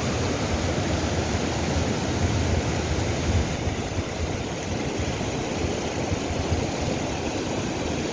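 Mountain stream water rushing over rocks: a steady, unbroken noise.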